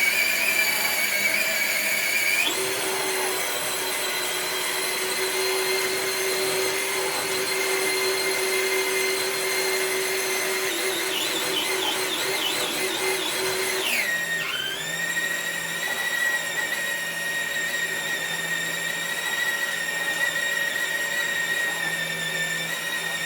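Traxxas TRX-4 Bronco RC crawler's electric motor and gears whining steadily under load as it drags a weighted dead sled. The pitch steps up about two and a half seconds in, then dips sharply about fourteen seconds in and settles slightly lower.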